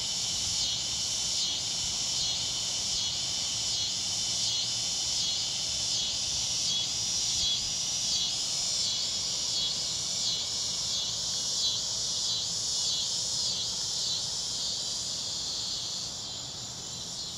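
Chorus of cicadas and crickets: a high, pulsing buzz that rises and falls about three times every two seconds over a steady high trill. The pulsing weakens near the end.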